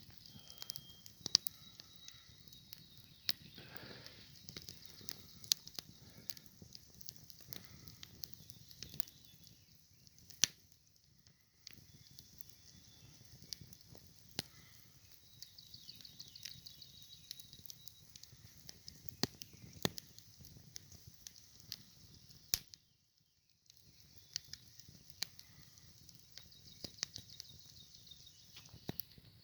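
Wood campfire crackling, with sharp pops at irregular intervals over a steady hiss. The sound drops out for about a second roughly three-quarters of the way through.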